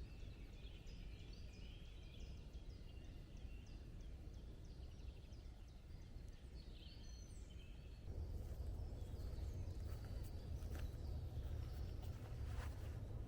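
Small songbirds chirping and twittering over a steady low rumble. About eight seconds in the birdsong fades, the rumble gets louder, and a few sharp knocks or crackles follow.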